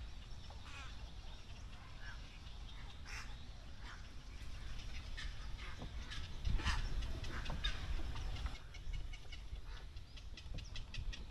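Wild birds calling: a scatter of short chirps and calls, busier and louder in the middle, with a quick run of ticks near the end, over a low steady rumble.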